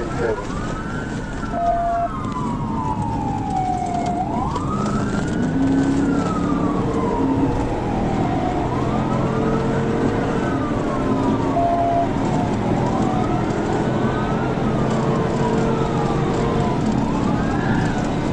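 Police cruiser siren on wail, rising and falling about every three seconds, over steady engine and road noise from the cruiser.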